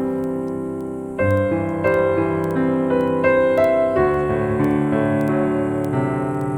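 Slow, gentle piano music: held chords with a simple melody, new notes struck every half second or so.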